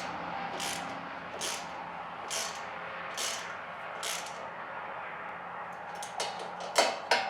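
Ratchet wrench turning bolts, a short ratcheting stroke about every 0.8 s, followed near the end by several sharp metallic clinks of tools and parts.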